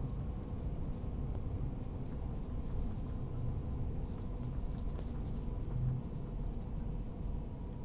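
Steady low rumble of a Queensland Tilt Train running at speed, heard from inside the carriage, with a faint steady hum and light irregular ticks and rattles on top.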